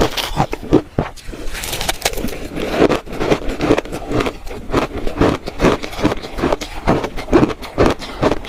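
Shaved ice being bitten and chewed by the spoonful: a rapid run of crisp crunches, about three to four a second.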